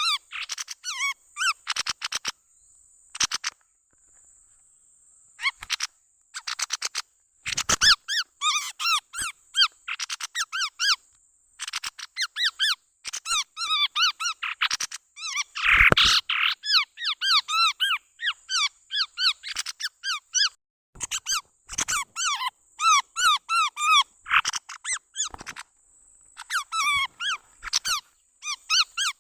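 Chestnut-rumped babbler calls played as a bird-lure recording: rapid runs of short, bending chirping notes in repeated bursts that cut in and out abruptly, with short silent gaps between.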